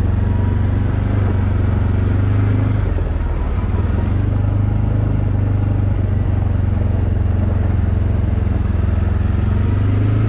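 Arctic Cat Alterra 700 ATV engine running steadily under way, its note dropping slightly about three seconds in.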